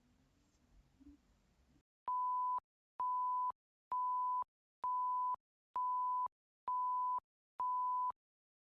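Seven electronic beeps at one steady pitch, each about half a second long and just under a second apart, starting about two seconds in after a faint hush.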